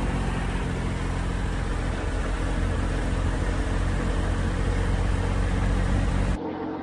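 Motorcycle engine running steadily under way, with a rushing noise over it. It switches abruptly near the end to a quieter, steadier engine sound.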